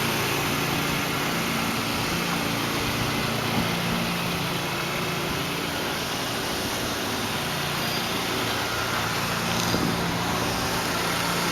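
A 2010 Hyundai Elantra Touring's 2.0-litre inline-four engine idling steadily.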